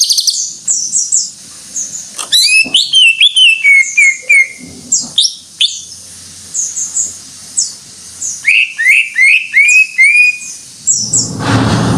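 Cucak ijo (leafbird) singing in full song: a fast run of high chirps and whistles, broken twice by a series of lower, down-slurred whistles. A short rushing noise comes in near the end.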